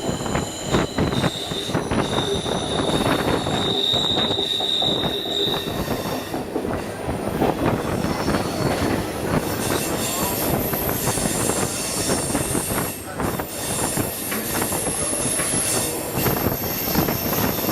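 Canadian Pacific train's steel wheels squealing against the rails on curving track, over the rumble and clatter of the cars rolling along. The squeal comes as long, held high-pitched tones, one strongest about four to six seconds in and higher ones from about ten seconds on.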